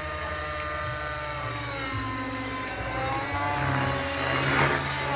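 Align 600 radio-controlled helicopter in flight, its rotor and motor whine shifting in pitch as it manoeuvres: dipping a little past the middle, then rising again near the end.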